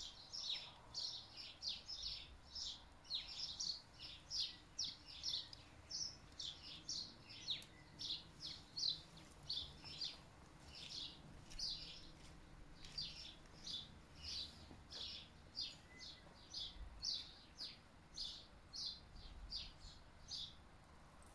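A small bird chirping over and over: short, high chirps at about two a second, with a faint background hiss of moving air.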